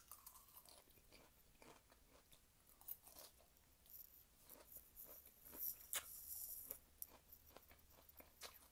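Faint crunching and chewing of a mouthful of fresh lettuce salad, in scattered short crackly bites.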